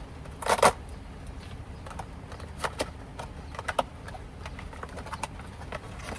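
Scattered small clicks and taps of kitchen items and packaging being handled while toppings are added to a just-cooked pancake, with a louder double knock about half a second in.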